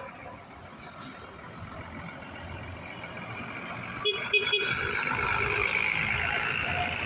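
A city bus running as it moves through the terminal, its engine noise building and getting louder through the second half, with a few short sharp clicks or beeps about four seconds in.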